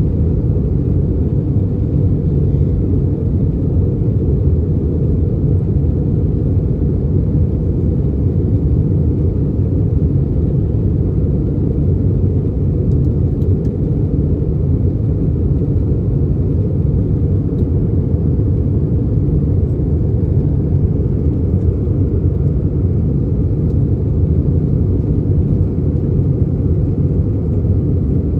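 Steady, loud low rumble of engine and airflow noise inside the cabin of an Airbus A319 airliner in flight on approach, with no change in level or pitch.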